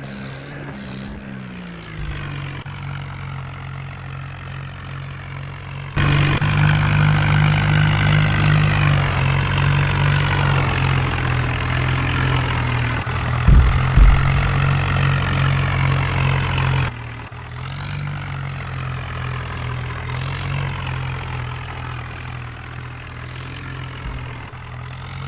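Swaraj 855 tractor's three-cylinder diesel engine running steadily, settling lower in pitch over the first couple of seconds. It turns abruptly much louder from about six seconds to about seventeen seconds, then drops back to the earlier level.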